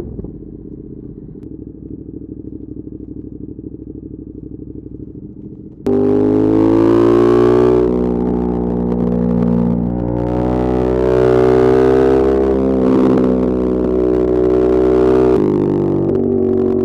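Ducati Monster 1200 S's L-twin engine running, heard raw through a helmet-mounted wireless mic. For the first six seconds it runs steadily and quietly at low revs. Then it jumps suddenly to a much louder, deeper engine and exhaust note that rises and falls in pitch a few times as the bike is ridden.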